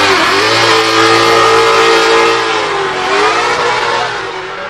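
Drift car engine revved up and held at high revs, its pitch sagging briefly about three seconds in and then rising again.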